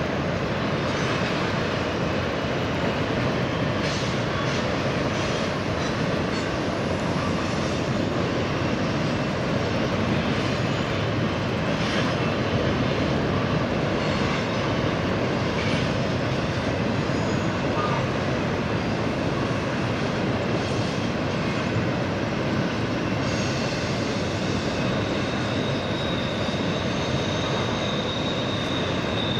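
Double-stack intermodal freight cars rolling past, a steady rumble of steel wheels on rail. Near the end a high, thin wheel squeal comes in.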